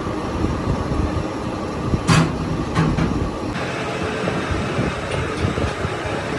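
Workshop machinery running with a steady low rumble, with a sharp knock about two seconds in.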